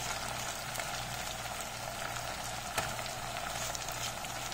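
Mutton frying in hot mustard oil, a steady sizzle, with one sharp click about three seconds in.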